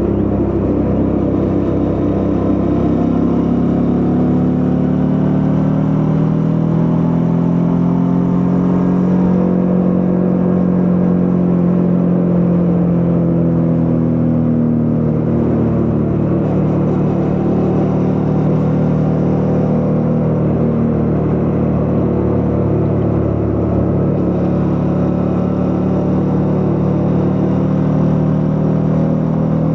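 Suzuki V-Strom 650's V-twin engine running under way, its note rising gently to a peak about ten seconds in, easing off, then climbing again near the end.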